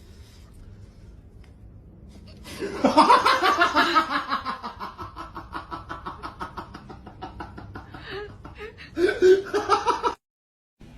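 A long fit of laughter in quick pulses, loudest at the start and slowly falling in pitch and fading, then a second loud burst just before the sound cuts off abruptly.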